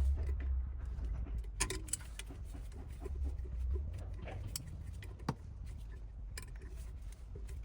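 Scattered light clicks and small metallic knocks, like keys or tools being handled, over a steady low rumble.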